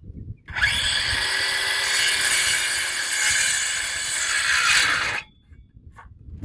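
Power saw cutting through a wooden board, a steady sawing noise of about four and a half seconds that starts about half a second in and cuts off suddenly near the end.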